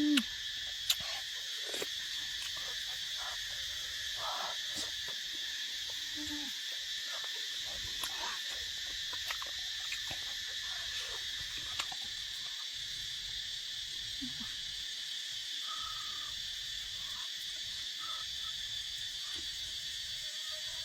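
A steady insect chorus, one constant high trill, with scattered faint clicks and a few short low calls.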